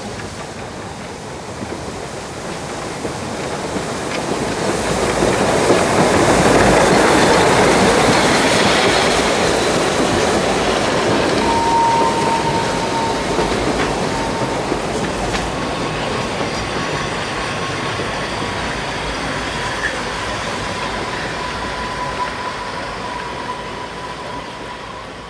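Narrow-gauge train running past, growing to its loudest about six to eight seconds in and then running on steadily. From about halfway through a thin, high, steady wheel squeal sounds over the running noise.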